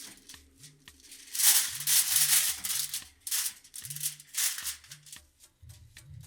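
Aluminium foil crinkling and rustling in loud bursts as it is handled, while butter is rubbed on and fish are wrapped in it. A background music track with a repeating bass line plays throughout.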